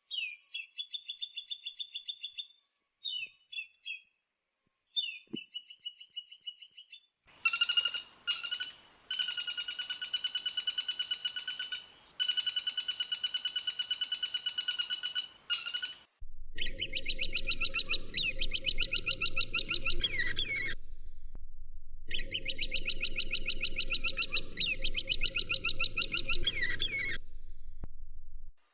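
Woodpecker calls: rapid, high-pitched trilled rattles repeated in about six bouts with short gaps between them, the background noise changing from bout to bout as one recording is spliced to the next.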